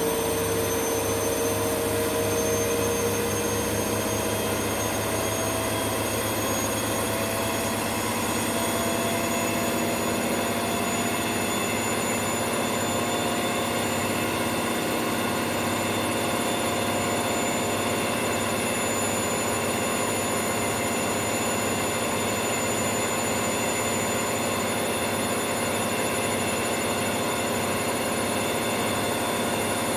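Indesit washing machine on a fast spin: a steady whine that rises slowly in pitch over the first ten seconds or so as the drum speeds up, then holds level at full spin speed.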